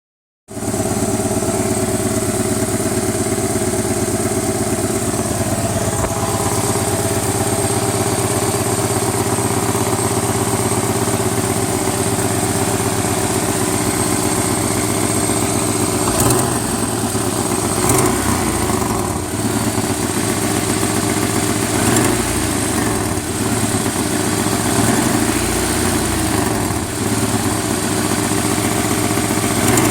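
An engine idling steadily, with a couple of sharp knocks a little past the middle.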